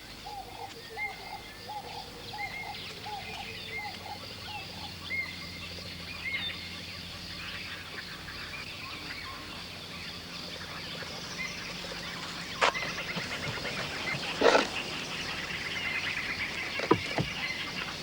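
Wild birds calling: a quick series of short repeated calls for the first few seconds, with scattered higher chirps. A few sharp knocks come in the second half.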